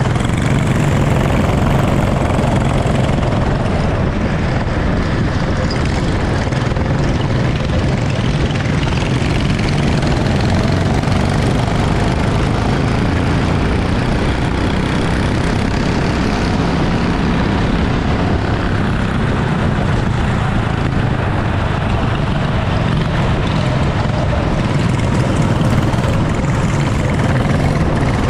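Racing kart engine running steadily at a constant, even drone, with no sharp revving up or down.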